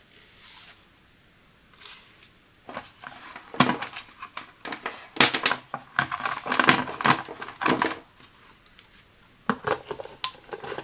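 Close-up handling of an electric kettle and its packaging: crinkling wrapping mixed with sharp clicks and taps. It is busiest from about three to eight seconds in, pauses, and picks up again near the end.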